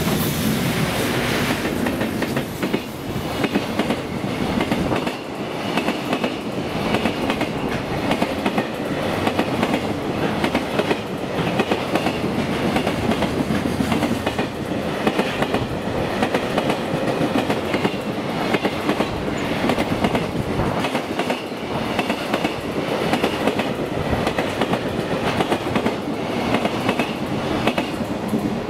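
Freight train of container wagons passing close by at speed: the locomotive goes by first, then a steady rumble of wheels with a continuous clickety-clack over the rail joints.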